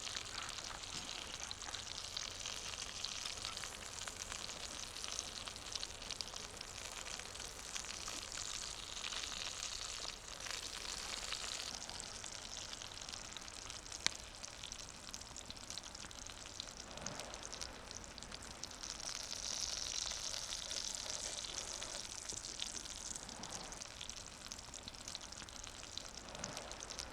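Food sizzling in a hot pan, the sizzle starting abruptly and running on steadily, with a single sharp click about fourteen seconds in.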